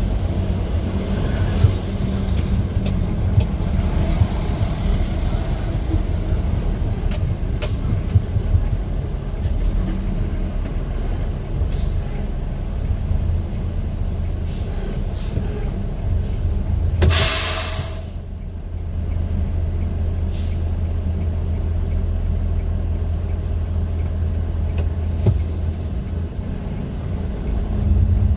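A vehicle running with a steady low rumble, with scattered light clicks and knocks and a loud hiss of air lasting about a second roughly two-thirds of the way through.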